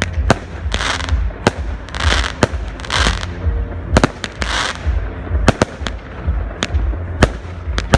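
Fireworks going off: a rapid, irregular run of sharp bangs, about two a second, mixed with several longer hissing bursts and a low rumble beneath.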